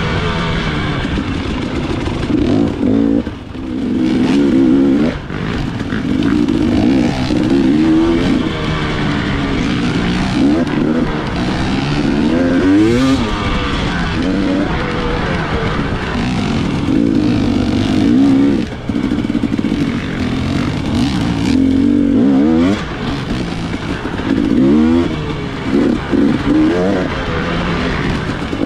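Dirt bike engine revving hard and easing off over and over, its pitch climbing in repeated sweeps as the throttle opens, with brief drops when it shuts off.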